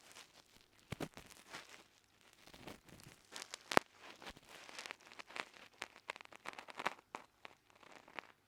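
Ear pick scraping and rustling deep inside an ear, with crackly earwax. The scratches and clicks come irregularly, with one sharp louder click a little before halfway.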